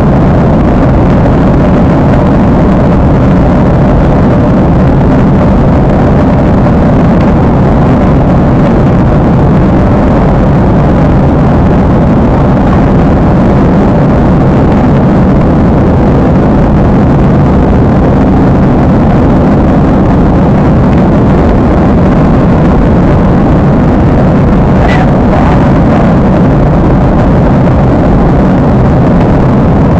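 Steady, loud roar of an airliner's jet engines and rushing air heard inside the cabin, unchanging throughout, with one small click about 25 seconds in.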